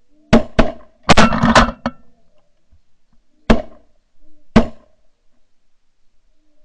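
Volley of shotgun shots from several hunters firing at snow geese: two quick shots, then a rapid overlapping burst of four or five, then two more single shots about a second apart. Geese call faintly underneath.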